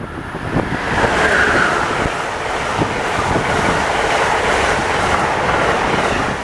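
Passenger train passing close by at speed: a steady loud rush of wheels on rail with repeated clicks of wheels over rail joints.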